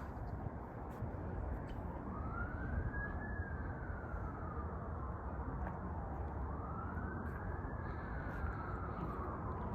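Emergency vehicle siren wailing, its pitch slowly rising and falling in cycles of about four to five seconds, over steady background noise.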